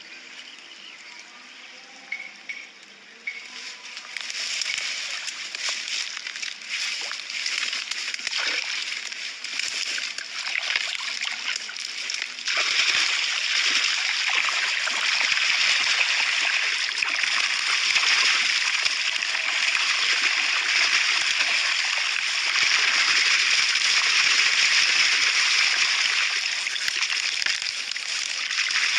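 Water sloshing and splashing, continuous and without a clear rhythm, building about four seconds in and growing louder again about twelve seconds in.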